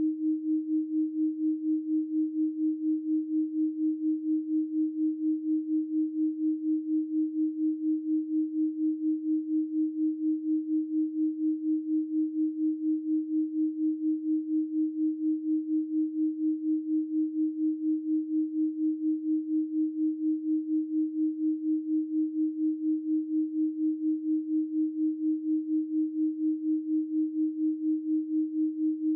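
Electronic 312 Hz pure sine tone held at one pitch, pulsing gently in loudness about three times a second.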